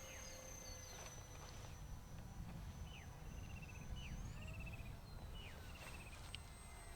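Faint steady high whine of a small electric motor on an RC glider flying at part throttle, stepping up in pitch about four seconds in. Scattered short chirps and two brief trills from wildlife, over a low rumble of wind on the microphone.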